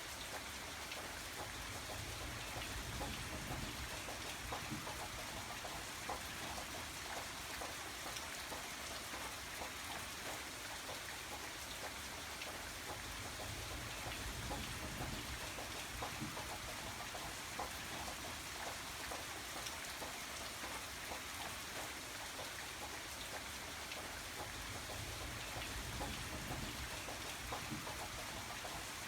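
Steady rain falling, a dense even hiss dotted with the patter of individual drops striking a surface.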